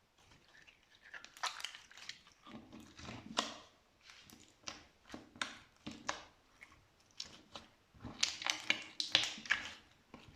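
Slime being squeezed and pressed by hand, giving irregular sticky pops and crackles. They come a few at a time at first and crowd together near the end.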